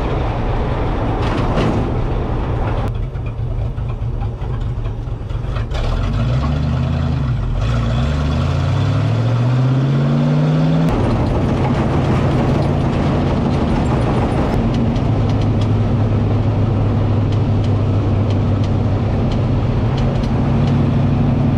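Race car's engine heard from inside its bare, roll-caged cabin while driving. It holds a steady note, then climbs steadily in pitch for about five seconds as the car accelerates, drops suddenly about halfway through, and runs steady again.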